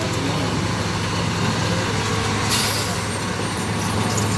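Heavy truck engine running steadily at a low, even pitch, with a short hiss about two and a half seconds in.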